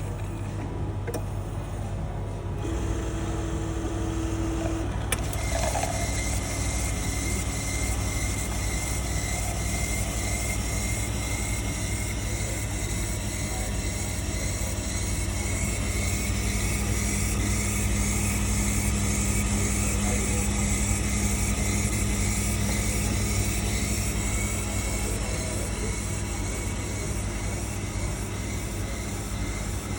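Self-serve coffee machine running its cycle, a steady mechanical noise that gets louder a few seconds in, with a steady hum for a stretch in the middle.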